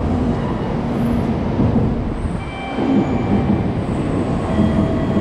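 Shinkansen bullet train running slowly into a station platform: a steady low rumble of wheels and running gear.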